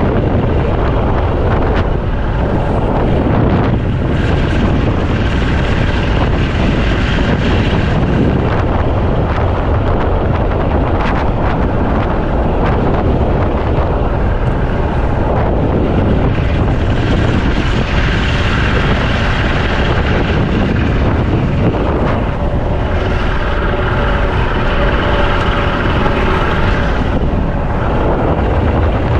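Strong wind buffeting the microphone, with a motor running steadily underneath.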